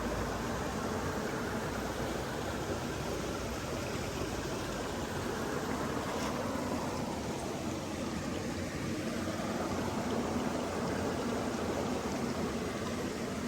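Steady rushing of flowing water, an even hiss without pauses.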